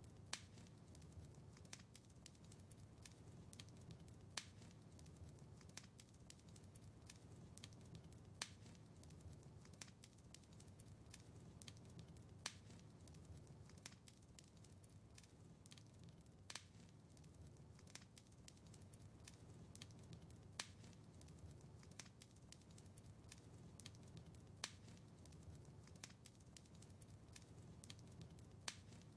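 Wood fire crackling in a fireplace: a soft steady rumble with scattered small clicks and a sharper pop about every four seconds.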